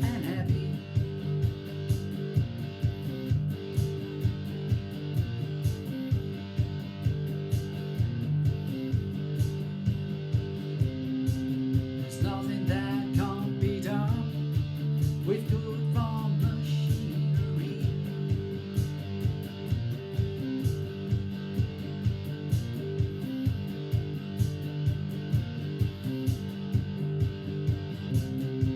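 Guitar music with a steady beat of about two strokes a second. Sustained chords run under it, with a few bent lead notes in the middle.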